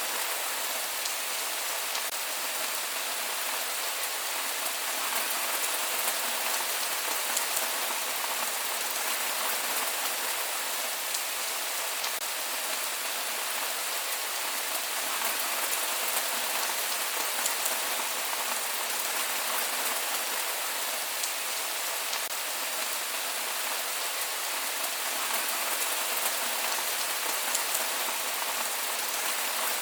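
Steady rain falling: an even hiss of rain with faint scattered drop ticks and no thunder.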